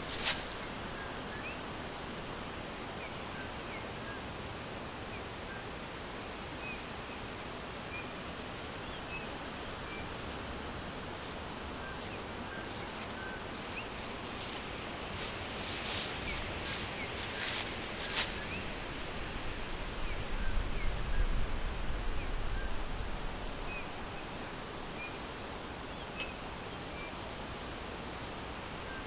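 Forest ambience: small birds giving faint, short chirps scattered throughout over a steady background hiss. A few sharp crackles come near the start and about halfway through, and a brief low rumble follows a little later.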